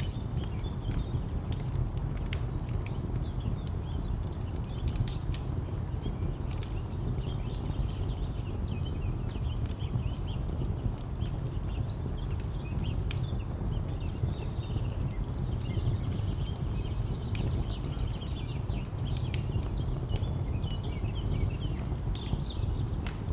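Wood fire crackling with scattered sharp pops over a steady low rumble of distant traffic, with small birds chirping throughout.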